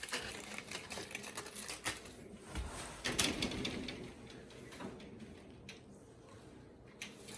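Irregular clicks and rustling of fresh eucalyptus branches and leaves being handled, with a louder rustle about three seconds in.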